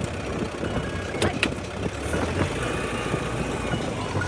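Heavy vehicle engine running steadily, with two sharp knocks a little over a second in.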